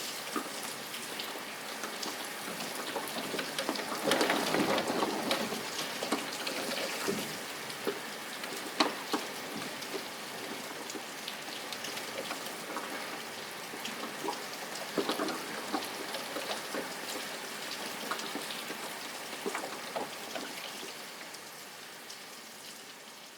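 Rain falling steadily, with many sharp individual drops hitting a surface. It swells about four seconds in and fades out near the end.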